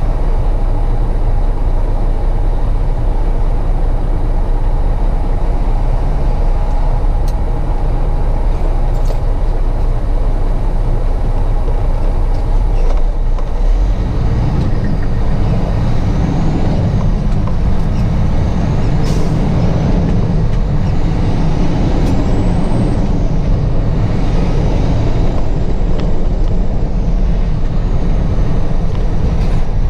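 Truck running with engine and road noise heard from the cab. The low rumble grows heavier about halfway through, with a few faint high squeals over it later on.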